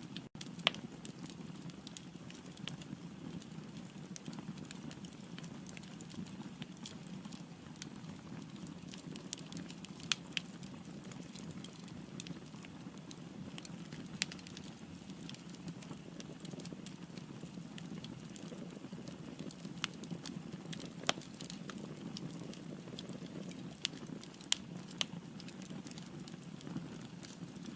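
Firewood burning in a fireplace: a steady low rush of flames with scattered sharp crackles and pops, a handful of them louder.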